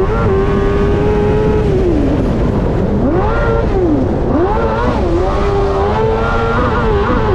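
Rally car engine pulling at high revs on a gravel road, over a constant rush of wind and road noise. The revs hold steady, fall away twice between about two and four seconds in, then climb back and hold high with a few brief dips near the end.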